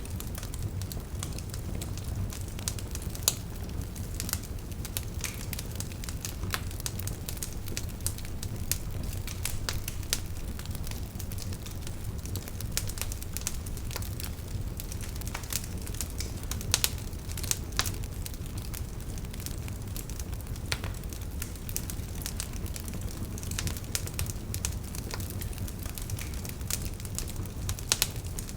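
Fire crackling, with frequent irregular sharp pops over a steady low rumble.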